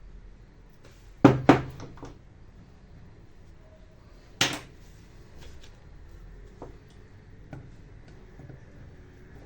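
Two sharp knocks close together about a second in, another a few seconds later, and a few light clicks between: hard objects being set down or handled.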